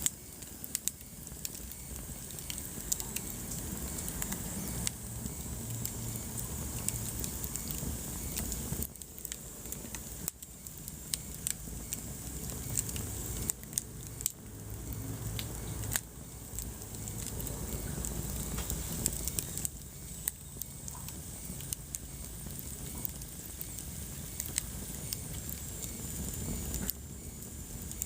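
Wood fire burning in a fireplace, crackling with frequent sharp pops and snaps over a low, steady rumble of flames.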